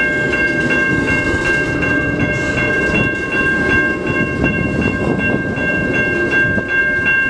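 Freight train rolling slowly through a grade crossing, a steady rumble of wheels on rail, with the crossing's warning bell ringing evenly about three times a second.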